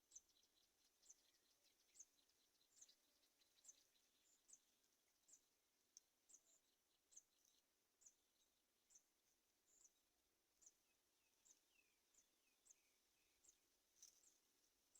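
Faint, short, high-pitched bird chirps repeated steadily about once every second, with a brief run of fainter rapid ticks in the first few seconds.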